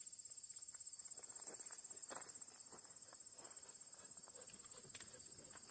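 Steady, high-pitched chorus of insects, with light footsteps and rustling in ground cover scattered through it.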